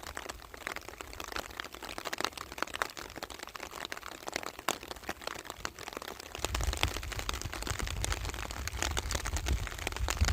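Rain falling, many drops ticking and pattering in a dense, steady patter. About six and a half seconds in, a low rumble comes in under the rain and stays.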